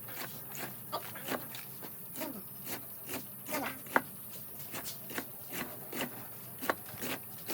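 Pigs eating: irregular wet chomping and smacking of food, with a few short grunts.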